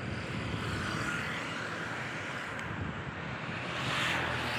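Steady rushing noise with a low rumble, swelling slightly about four seconds in.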